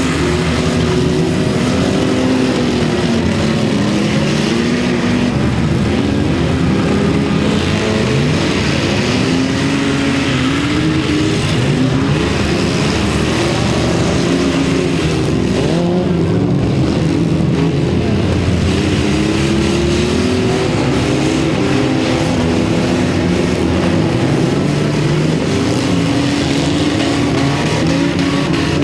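Many demolition derby cars' engines running and revving at once, a dense mix of pitches rising and falling over each other without a break.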